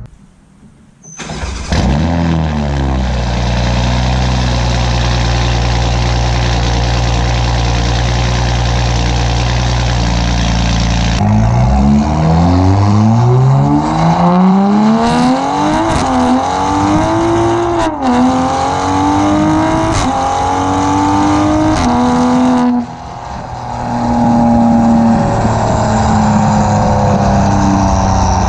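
Straight-piped, catless 2020 Toyota Supra exhaust with its valves open, running loud at a steady engine speed, then accelerating hard: the pitch climbs through the gears, dropping sharply at each upshift, with a few sharp cracks around the shifts. Near the end the throttle lifts and the engine falls back to a steadier tone.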